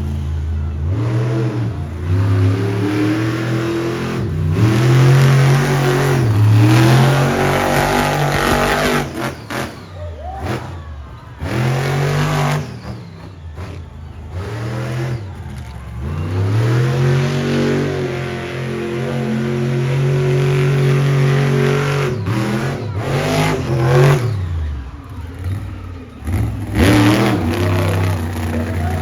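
Monster truck engine running loud and revving hard again and again, its pitch climbing and falling with the throttle, with a few sudden brief drops in between.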